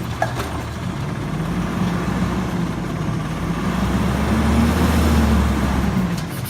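Garbage truck engine running, revving up for a few seconds and then dropping back toward idle near the end.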